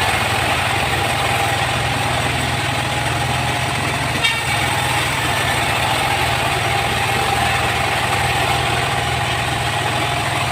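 Sawmill machinery running steadily with an even, engine-like hum, with a single short knock about four seconds in.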